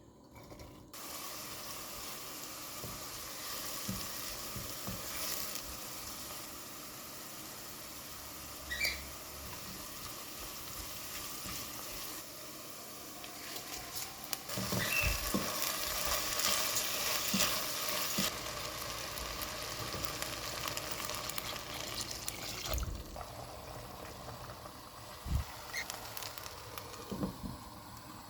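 Food frying in oil in a pan: a steady sizzle that grows louder and denser through the middle, with a few light knocks, as of a utensil against the pan.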